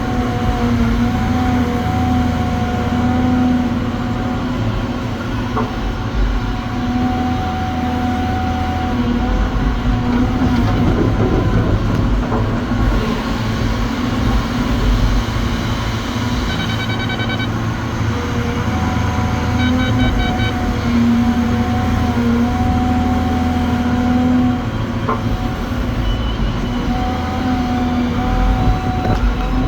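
Caterpillar 725C articulated haul truck's diesel engine running steadily under way. Short spells of rapid beeping come in about two-thirds of the way through.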